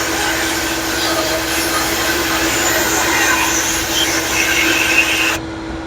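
Media blaster spraying glass beads onto rusty steel floorboards to strip them to bare metal: a loud, steady hiss of air and beads with a steady hum underneath, the blast cutting off about five seconds in.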